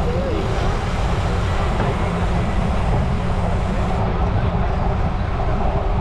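Steady wind rumble buffeting the microphone while riding a bicycle at about 11 mph, with a hiss of tyre and road noise underneath.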